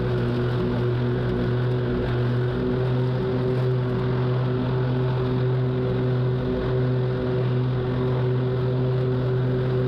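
Zero-turn lawn mower running while mowing, its engine holding a steady, even drone with no change in speed.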